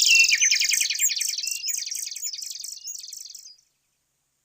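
Bird chirping: a fast, high run of repeated chirps that fades away and stops about three and a half seconds in.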